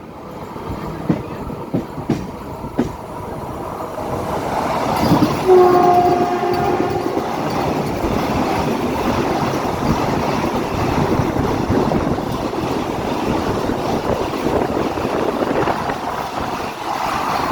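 Vande Bharat electric train accelerating away from the station. A few sharp wheel clacks come first, then a short two-tone horn blast about five and a half seconds in, then the steady rush of the train's cars running past.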